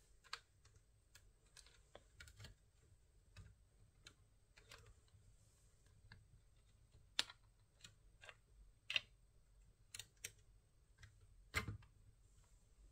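Faint, irregular clicks of laptop keys being pressed, a few at a time, with three louder taps spaced a couple of seconds apart in the second half.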